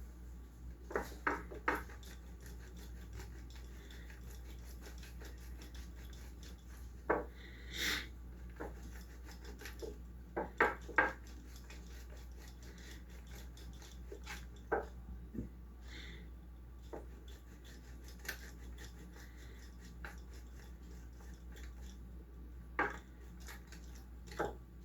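Kitchen utensils and dishes knocking and clinking now and then, with light rubbing, as food is handled and assembled on a tray. There are about a dozen sharp knocks, some in quick pairs or threes, over a faint low hum.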